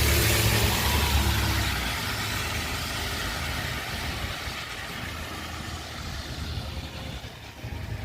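A motor vehicle passing on a wet road: engine rumble and tyre hiss on the wet surface, loudest at the start and fading away over the next few seconds.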